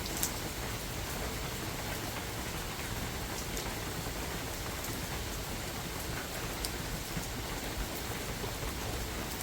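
Steady rain falling in a forest, an even hiss with a few louder single drops ticking close by now and then.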